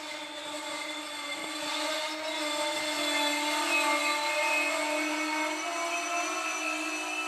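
Train moving past with a steady squeal made of several held tones that waver slightly in pitch. It grows louder toward the middle, then eases a little.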